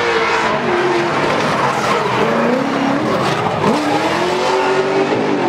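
Drift car engines revving hard, their pitch rising and falling, with tyres squealing as the cars slide through the course.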